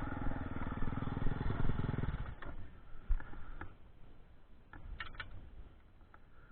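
Dirt bike engine running with a steady rhythmic beat, then stopping abruptly about two seconds in, followed by a few faint clicks and knocks.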